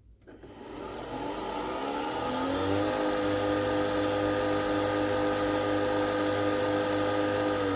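Nespresso Vertuo Next coffee machine running a brew cycle: its motor starts about half a second in, the whine rises in pitch over the next couple of seconds as it spins up, holds steady over a low hum, and starts to wind down at the very end.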